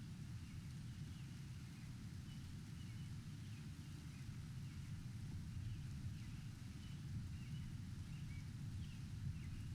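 Low, steady rumble of a thunderstorm soundscape, with faint short bird chirps repeating throughout.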